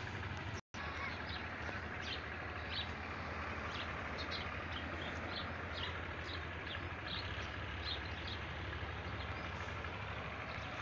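Small birds chirping in short high notes, repeated through the whole stretch, over a steady low background rumble; the sound cuts out for an instant about half a second in.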